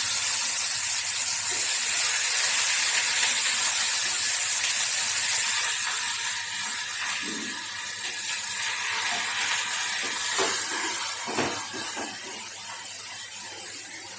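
A tadka of cumin, garlic and onion sizzling in hot oil in a small steel pan on a gas burner. The sizzle is loud for the first several seconds and then dies down, with a few clinks of the spoon against the pan later on.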